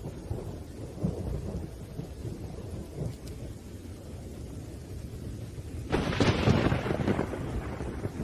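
Thunderstorm: low rolling thunder under steady rain. About six seconds in, a sudden, louder thunderclap rumbles and fades over the next second or two.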